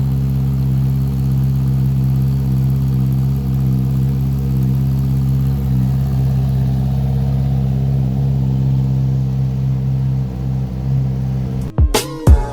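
Honda CBR650R's 649cc inline-four, fitted with an Akrapovic exhaust, idling steadily. Near the end the engine sound cuts off and music with a hard beat starts.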